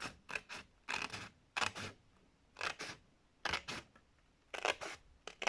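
Scissors snipping through a sheet of white paper: a series of short, crisp cuts, about one every half second to second.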